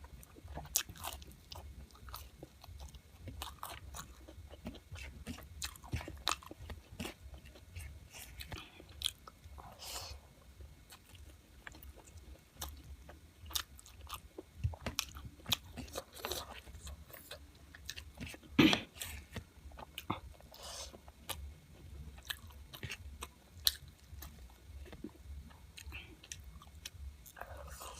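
A person chewing and biting chicken close to the microphone: irregular wet mouth clicks and small crunches, with one sharper, louder crunch about two-thirds of the way through. A steady low hum runs underneath.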